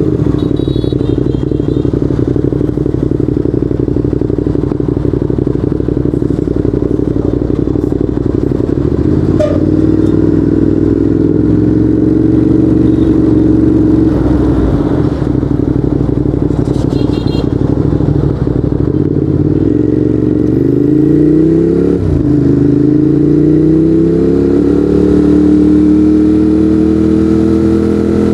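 Ducati Monster 821's Testastretta L-twin running through a Termignoni exhaust while riding. The engine note holds steady at first, then rises slowly from about nine seconds in. About three-quarters through it drops sharply with an upshift and rises again.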